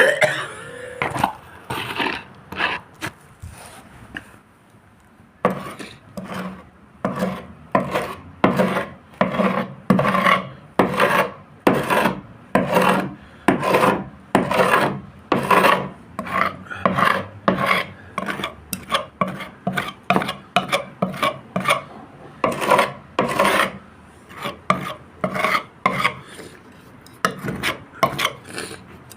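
Boat hull being sanded by hand: repeated rasping back-and-forth strokes at about two a second, with a short pause about four seconds in.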